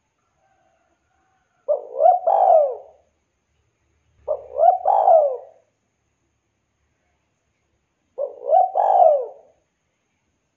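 Spotted dove (tekukur) cooing: three call phrases a few seconds apart, each a quick run of two or three notes ending in a falling coo.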